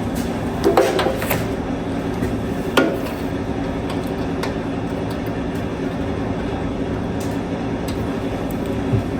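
Small 16 horsepower gasoline engine running steadily at an even speed, with a few sharp metallic clanks about a second in and near three seconds.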